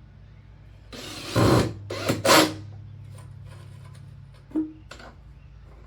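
Power driver running a Simpson Strong-Tie screw through a caster wheel plate into the wooden 2x6 frame in two short bursts about a second apart, followed by a few light clicks.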